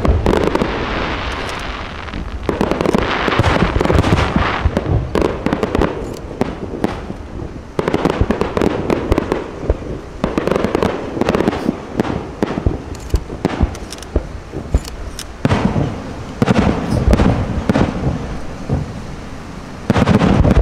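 Aerial fireworks display: shells bursting one after another with dense crackling, the bangs and crackle overlapping without a break. A louder volley of bursts comes near the end.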